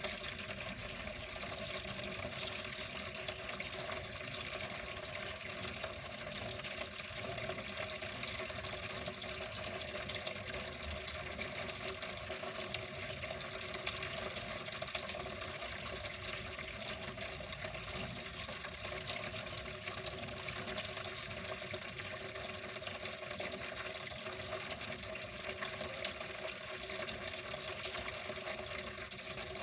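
Water running steadily in an even, unbroken flow.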